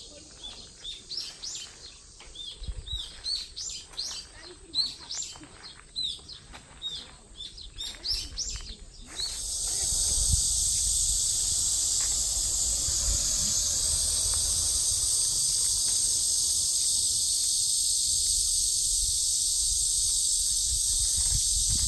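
Birds chirping in quick repeated calls for the first several seconds, then cicadas start up about nine seconds in with a loud, steady, high-pitched buzz that drowns out everything else.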